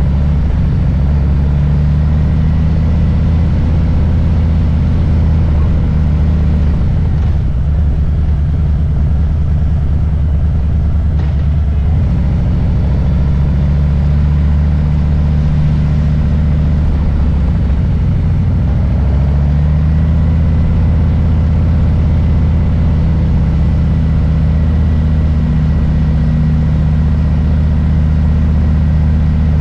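Harley-Davidson Low Rider S's Milwaukee-Eight V-twin engine running at low, fairly steady revs, its pitch wavering through the middle as speed changes, then settling again.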